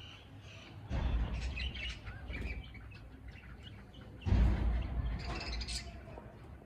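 Budgies chirping and twittering, with two louder rustling thumps, one about a second in and one just past four seconds.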